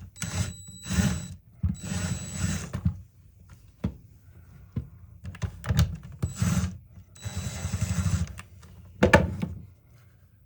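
A cordless power driver run in short bursts of about a second, whirring and rattling as it works at the tool's screws, with clicks between bursts. The first bursts carry a thin, steady high whine.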